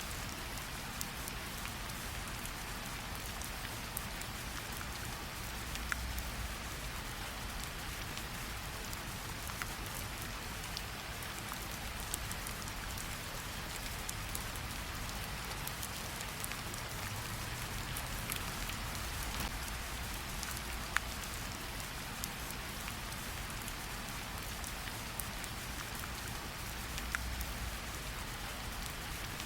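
Steady rain falling on leaves and water, an even hiss with scattered sharp drips of individual drops.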